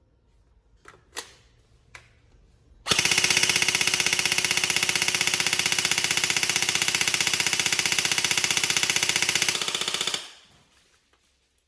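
G&G Firehawk airsoft electric gun (AEG) test-firing one long full-auto burst of about seven seconds on an 11.1 V LiPo battery, its gearbox cycling rapidly and evenly; a few light clicks come before it.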